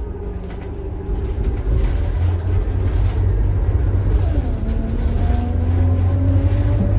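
Scania K280IB bus under way, its 9.3-litre five-cylinder turbodiesel rumbling as it pulls harder, with the ZF-Ecomat automatic's gear whine over it. The whine drops in pitch about four seconds in and then climbs again as the gearbox changes up under acceleration.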